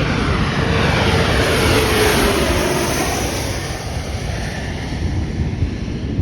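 Jet airliner passing low overhead: a loud rush of engine noise with a whine that falls in pitch as it goes by, peaking about two seconds in and then slowly fading.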